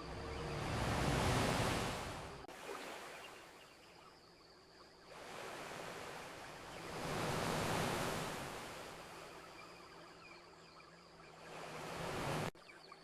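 Ocean waves washing onto a beach: slow surges of rushing surf that swell and fade about every six seconds, the last one cutting off suddenly near the end.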